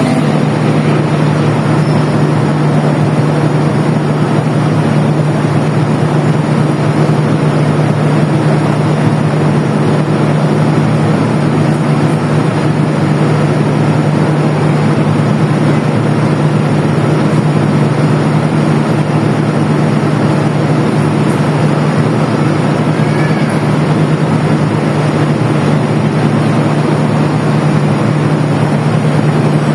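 A train's diesel engine running steadily with an unbroken low hum and a broad mechanical drone, with no change in pitch or level.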